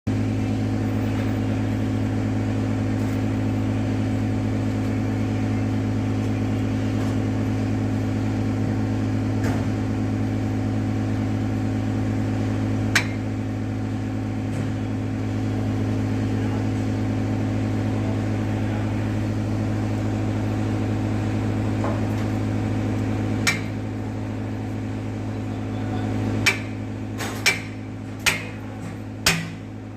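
Hammer strikes, metal on metal, driving a cylinder liner sleeve into a Tata 1109 truck engine block, which is going in very tight: two single knocks, then about one blow a second near the end. A steady low machine hum runs under it and drops in level shortly before the run of blows.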